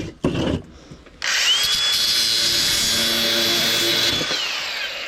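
A handheld electric power tool cutting metal scrap, most likely to separate brass from copper. Its motor spins up about a second in with a quickly rising whine, runs steadily for about three seconds with loud cutting noise, then winds down near the end.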